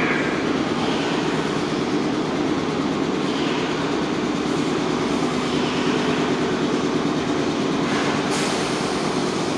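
Red Meitetsu electric commuter train pulling into an underground station platform and slowing, with a steady rumble of wheels on the rails and running gear.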